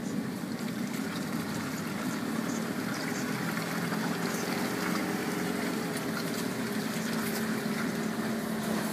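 Land Rover Defender's diesel engine running steadily at low revs, heard from inside the cabin while the vehicle crawls along a rough off-road track.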